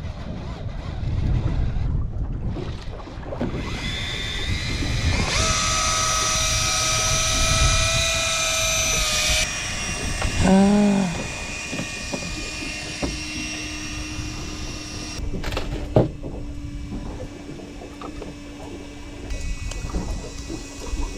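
Electric fishing reel's motor whining steadily for about five seconds as it winds in line, starting about four seconds in, over wind and water noise.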